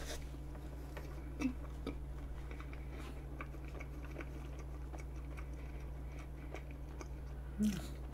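Soft, close-miked chewing of vanilla pound cake with whipped cream: faint, irregular mouth clicks over a steady low electrical hum.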